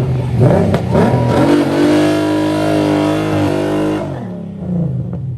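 A car engine is revved: the pitch climbs for about two seconds, is held at high revs for about two seconds, then drops back toward idle.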